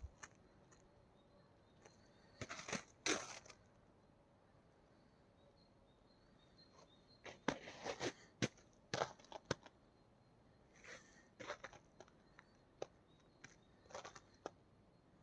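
Footsteps crunching in snow: irregular clusters of short crunches, with long quiet gaps between them.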